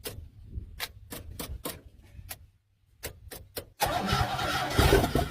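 Old car engine being cranked on its starter, with a low hum and irregular clicks. Nearly four seconds in it gets much louder as the engine gives a little kick, briefly trying to catch.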